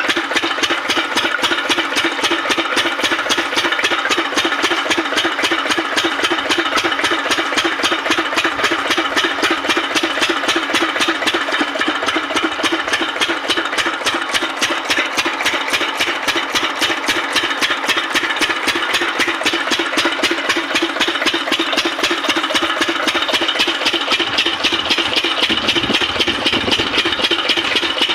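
Diesel water-pump engine running steadily, with a rapid, even beat from its firing.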